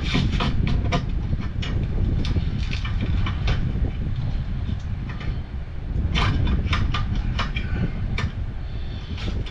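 Irregular metallic clicks and taps of hand tools and metal parts being worked on a furnace gas valve and its pipe fittings, over a steady low rumble.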